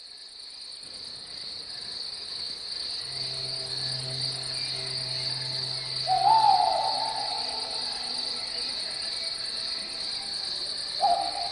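Crickets chirring in a steady high-pitched chorus that fades in at the start. A short hooting call rises and wavers about six seconds in, and another comes at the very end.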